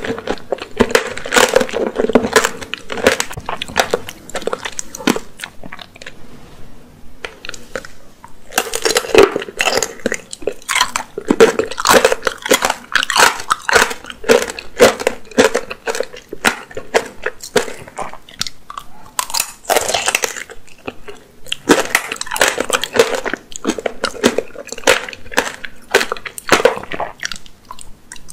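Close-miked chewing and crunching of candied apricot tanghulu, its hard sugar glaze cracking between the teeth in dense runs of crisp cracks. A quieter stretch comes about six to eight seconds in before the crunching picks up again, and a fresh bite comes near the end.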